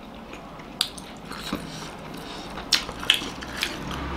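Mouth-eating sounds of steamed momos being chewed: about five sharp, wet clicks and smacks scattered over a few seconds.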